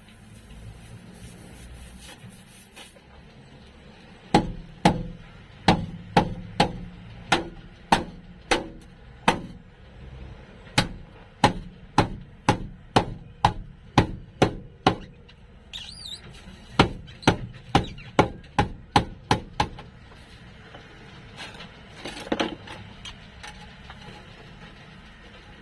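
Hammer blows on sheet metal, a steady run of about two strikes a second with a short pause partway. They stop a few seconds before the end, followed by a couple of fainter knocks.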